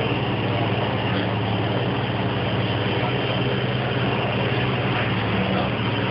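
Car audio subwoofers playing a loud, steady low bass tone, with a rough buzzing haze over it.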